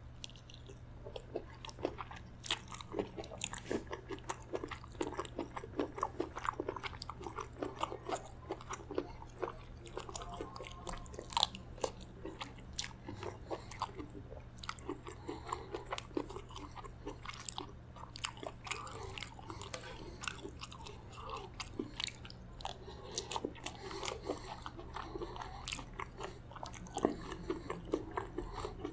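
Close-up chewing and mouth sounds of a person eating spicy chicken gizzard curry with rice and lettuce salad, full of quick wet clicks and smacks. A steady low hum runs underneath.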